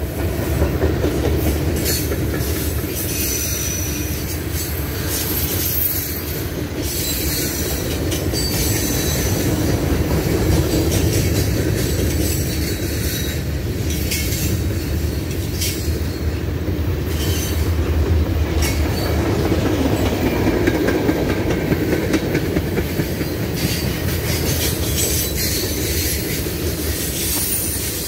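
Freight cars rolling past at trackside: a steady rumble of steel wheels on rail, with wheels clicking over the track and thin, high wheel squeals coming and going.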